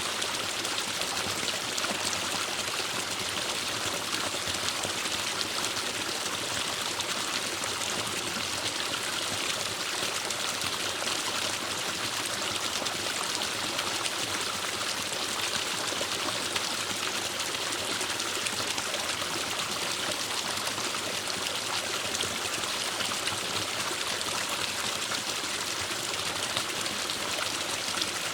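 A forest stream running steadily over rocks, a continuous even rush of water with trickling.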